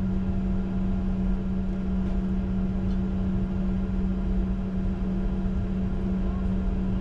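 Steady cockpit noise of a Bombardier Challenger 605 taxiing with its two rear-mounted GE CF34 turbofans at idle: a low rumble under an unchanging hum.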